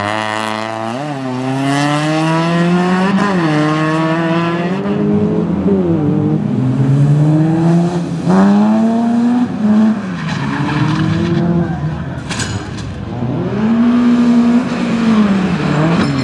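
Rally car engine running hard under load, its pitch climbing and then dropping sharply several times as it accelerates, shifts and lifts off.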